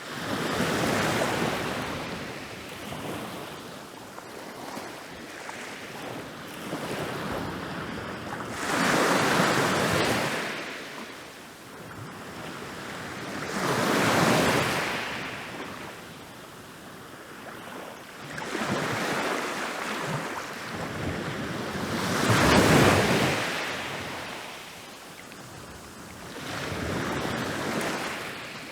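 Ocean waves rolling in and breaking on a beach. The surf swells and fades every few seconds, with the loudest breaks about a third, a half and three quarters of the way through.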